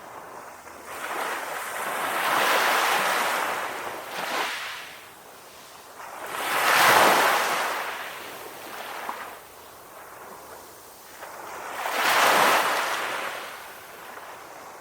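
Calm sea waves washing in, rising and falling in three main swells about five seconds apart, with a smaller wash between the first two.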